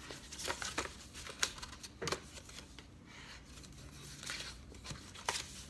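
Cardstock being folded and creased by hand along its score lines: short, irregular paper crinkles and taps.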